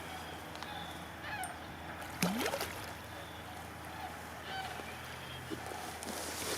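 Faint calls of sandhill cranes, a rolling bugle heard twice, once about a second in and again past the middle.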